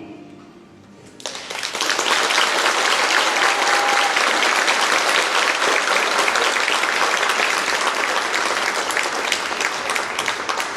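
A concert hall audience applauding: the end of a sung song dies away, and about a second in many people start clapping together, keeping up a dense, steady applause.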